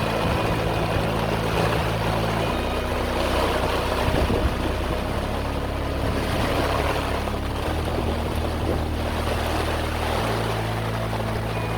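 Motorboat running across open water with wind and water noise, under background music whose low bass notes change about every two and a half seconds.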